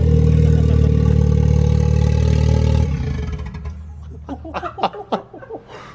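Ford Fiesta ST engine running loudly and steadily through a partly fitted exhaust with no back box, then switched off about three seconds in. A few sharp clicks follow.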